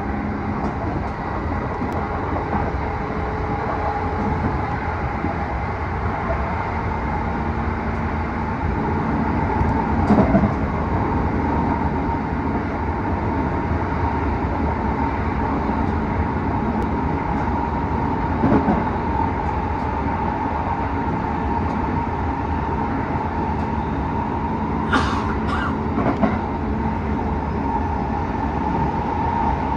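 Tokyo Metro 07 series train running at speed, heard from inside the car: steady running noise with a constant whine. A couple of knocks come from the wheels and track about ten and eighteen seconds in, and two short sharp sounds come near the end.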